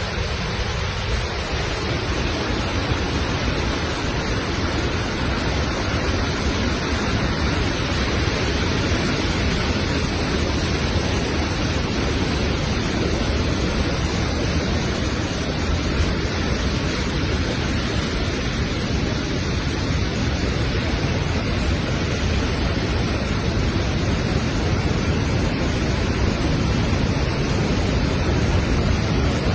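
Augrabies Falls on the Orange River in flood: the water rushing and pounding down in a loud, steady, unbroken roar.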